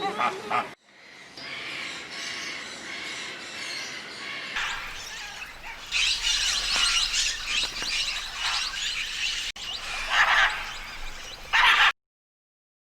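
Small songbirds chirping and twittering in quick, dense calls across a few spliced clips, with abrupt changes at each cut; the sound stops suddenly near the end.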